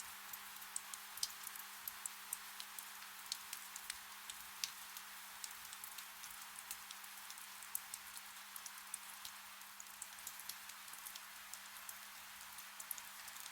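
Soft rain: a steady hiss with many separate drops ticking sharply and irregularly, several a second.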